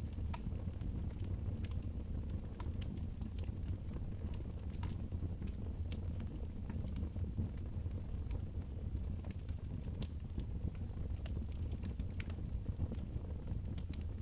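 Wood fire crackling in a fireplace, with sharp irregular pops and snaps over a steady low rumble.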